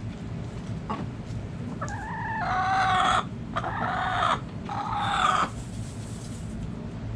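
A rooster crowing once, a cock-a-doodle-doo of several loud segments with short breaks between them, lasting about three and a half seconds and starting about two seconds in. A steady low rumble runs underneath.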